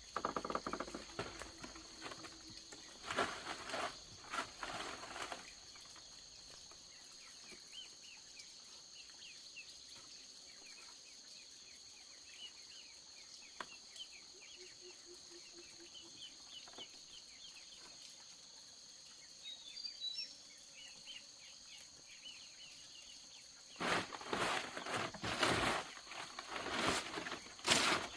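Insects droning steadily at a high pitch in the background, with many faint short chirps in the middle. Louder bursts of noise come a few seconds in and again near the end.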